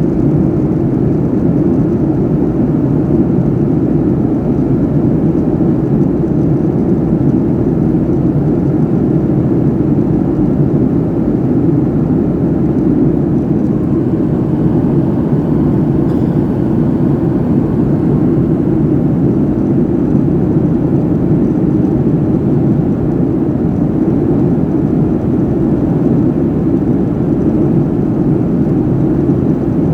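Jet airliner cabin noise heard from inside the passenger cabin in flight: a steady, deep rush of engines and airflow that does not change.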